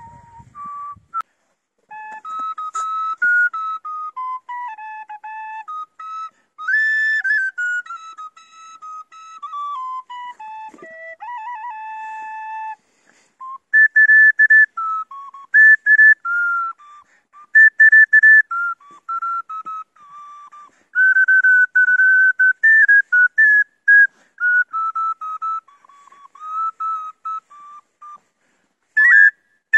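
Solo flute playing a melody of short and held notes, a single clear line with no accompaniment.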